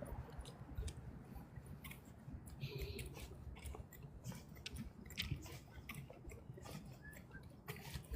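Footsteps crunching on a trail: faint, irregular clicks and crackles over soft low thumps.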